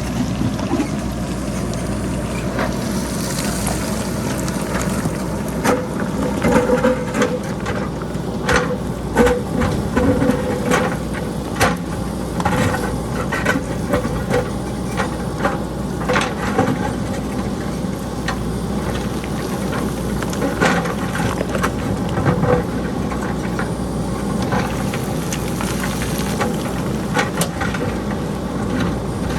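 JCB backhoe loader's diesel engine running steadily while boulders and pebbles clatter down the hillside in many sharp knocks, thickest from about six seconds in to the middle and scattered after that.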